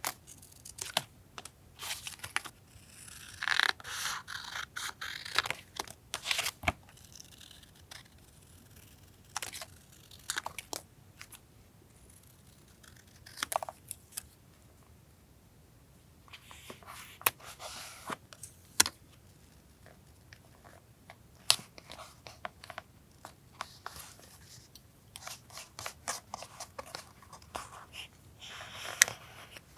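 Paper being handled for a journal collage: sheets rustling, tearing and crinkling in three longer spells, with sharp taps and clicks scattered between.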